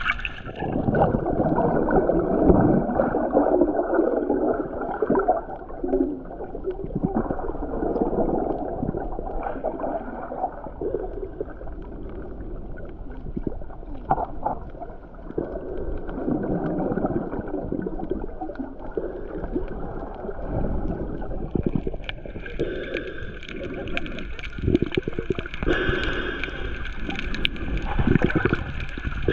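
Muffled underwater gurgling and churning of water, dull with no high end, as heard by a submerged microphone while snorkeling. About three-quarters of the way through the sound turns brighter and splashier.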